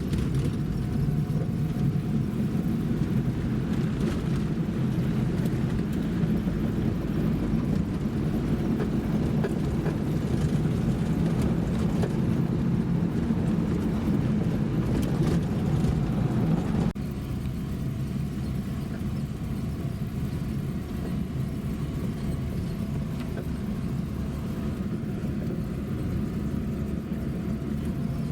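Steady low rumble of a vehicle on the move, with no distinct events; the level drops a little at a cut about two-thirds of the way through.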